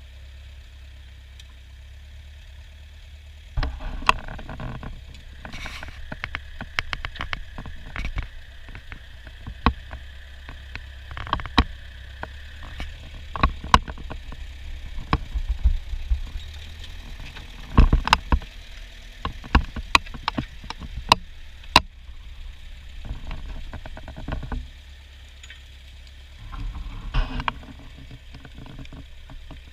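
Ford farm tractor engine running steadily with a low rumble while working the field. From about four seconds in to just past twenty, many irregular sharp knocks and clatters sound over it.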